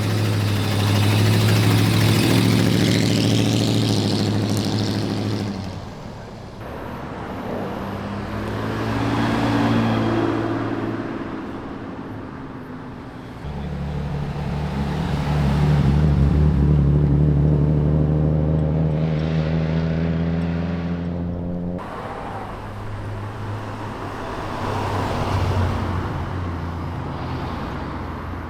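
Several modified cars in turn, each engine revving and accelerating away, rising in pitch. The sound changes abruptly from one car to the next.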